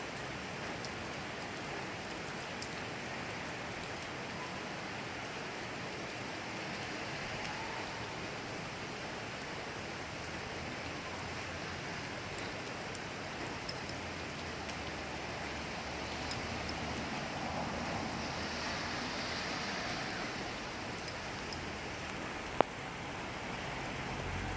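Steady rain falling at night, an even hiss with scattered drops. One sharp click stands out near the end.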